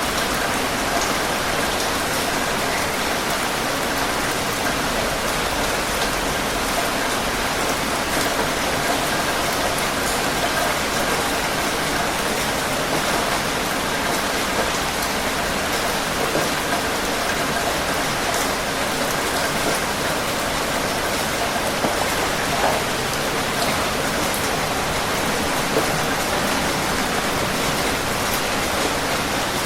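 Steady heavy rain falling, a constant even hiss with scattered individual drops ticking on a surface.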